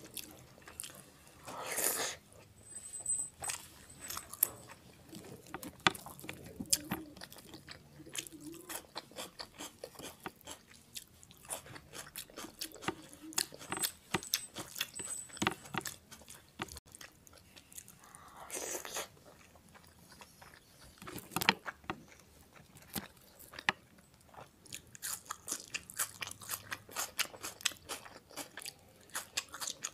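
Eating sounds: chewing and crunching with many small wet mouth clicks, as rice mixed with mutton keema curry is eaten by hand, with a few longer noisy bursts about two seconds in and again past the middle.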